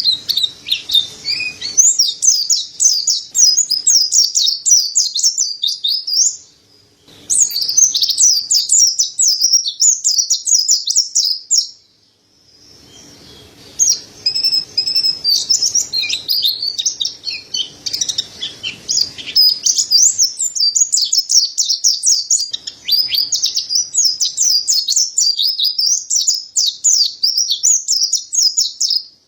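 Mountain white-eye (pleci dada putih) singing a fast, high twittering song in long runs, with short breaks about six and twelve seconds in.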